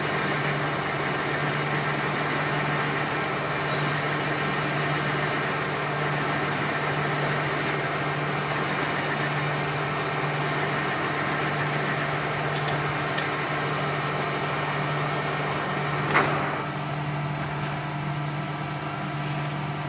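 Machinery running steadily with a constant low hum. About three-quarters of the way through there is a sharp clank, and after it the running noise is quieter.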